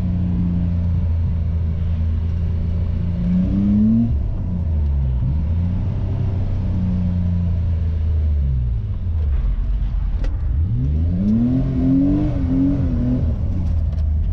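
BMW E28's engine pulling hard and easing off as the car is driven through bends, heard from inside the cabin. Its pitch climbs twice, a few seconds in and again near the end, and drops back in between.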